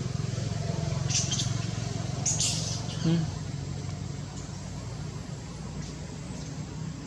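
A steady low motor hum, with two brief hissing sounds in the first three seconds.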